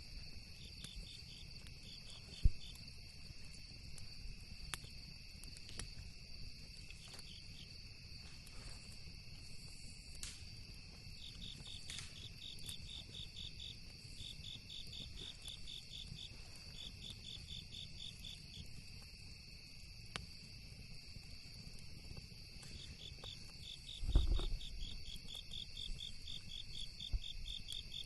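Crickets and other night insects chirping: a steady high buzz with pulsed trills that come and go. Beneath them a campfire crackles with scattered pops, one sharp pop about two and a half seconds in, and there is a low thump near the end.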